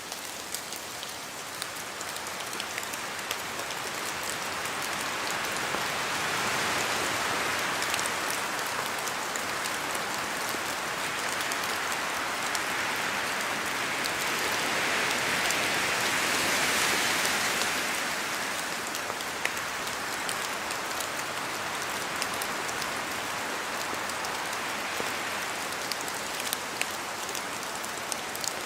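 Steady rain falling in a forest, with scattered sharp drips of raindrops falling from the trees. The wash swells louder twice, about a quarter of the way in and just past halfway, as gusts of wind move through.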